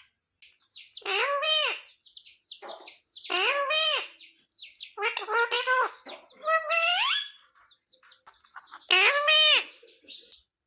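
Pet parrot calling: about five longer calls that rise and fall in pitch, with quick short chirps in between.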